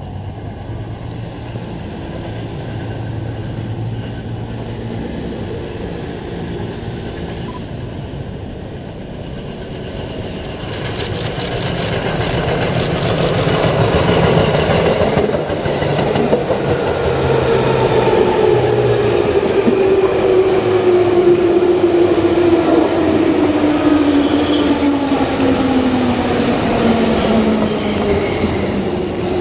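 JR Series 205 commuter electric train approaching and running past, its wheels clattering over the rail joints and growing louder. A whine falls steadily in pitch through the second half, with brief high-pitched wheel squeals near the end.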